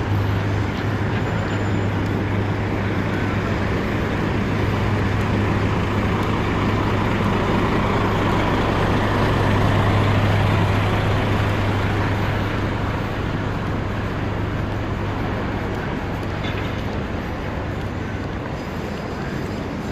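Road traffic passing close by: a steady wash of engine and tyre noise with a low hum, growing louder to about halfway through and then easing off.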